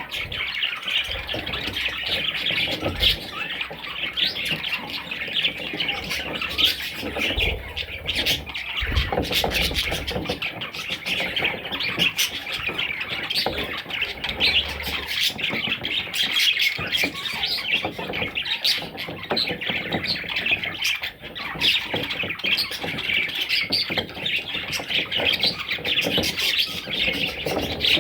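A flock of budgerigars chattering, chirping and squawking continuously, many birds at once, with scattered sharp clicks throughout.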